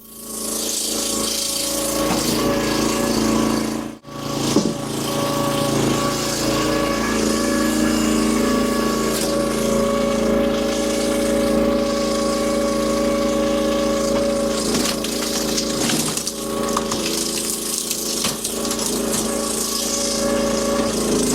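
Firewood processor's engine running steadily under load, with two brief drops in loudness, at the very start and about four seconds in.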